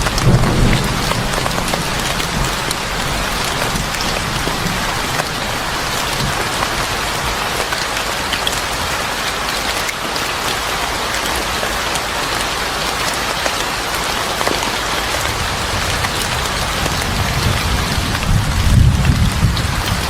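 Steady rain falling on a surface. A low rumble of thunder dies away at the start and builds again near the end.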